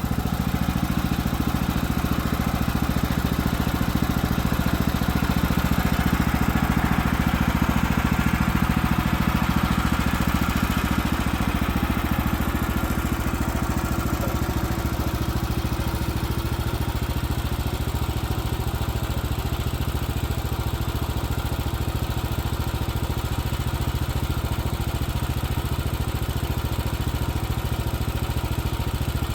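Woodland Mills HM130Max bandsaw sawmill's engine running steadily with the blade turning; the higher, rougher part of the sound eases about halfway through.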